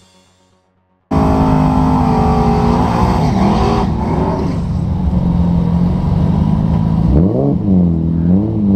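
Nissan 240SX engine, which sounds to the onlooker like an RB25 turbo swap, starts in about a second in and holds a steady, loud idle. Near the end it is revved in quick blips, its pitch dipping and rising.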